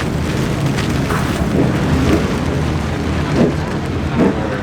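Steady, loud low rumble of car engines as show cars drive out, with a few brief voices heard over it.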